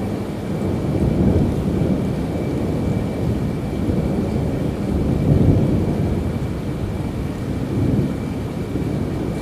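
Low rolling thunder rumbling over steady rain, swelling and easing a few times.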